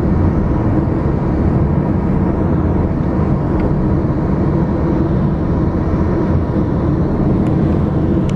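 Steady road noise of a car driving: engine and tyre rumble with no letup.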